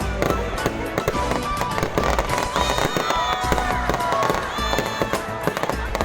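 Fireworks display: dense, rapid crackling and bangs throughout, with music with a steady bass beat playing underneath.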